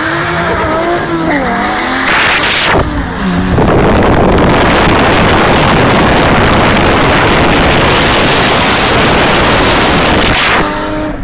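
Turbocharged cars, a Toyota Supra and a Nissan Skyline R33, accelerating flat out in a drag race, heard from inside one of the cars. For the first few seconds the engine pitch rises and falls through the gear changes. Then a loud, steady rush of engine and wind noise takes over and drops off shortly before the end.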